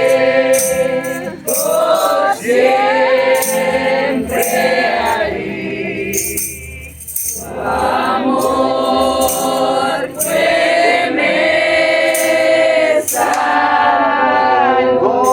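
A congregation of voices singing a Spanish worship hymn together in unison, line by line with a short pause about six seconds in.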